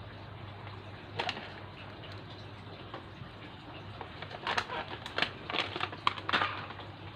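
Granular red fertilizer being sprinkled, rattling as it falls. There is one short rattle about a second in, then a run of quick, irregular rattles a little past the middle, over a steady low hum.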